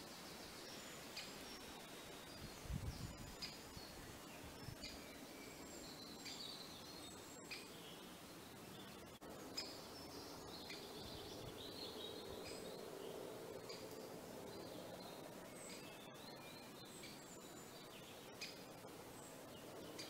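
Faint bird calls: many short, high chirps scattered throughout over a quiet outdoor background, with a few soft low thumps about three seconds in.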